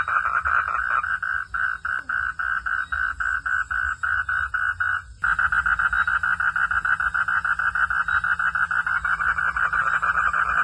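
Frogs calling in a fast, even train of pulses, about five or six a second, over a low steady rumble. The calling breaks off briefly a little after halfway and resumes.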